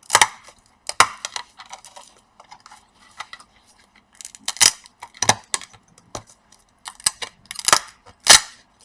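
Plastic snapping and cracking as a laptop keyboard bonded to its upper case is pried free: irregular sharp snaps and clicks, the loudest near the end. The keyboard is stuck harder than usual, which the repairer puts down to beer spilled into it.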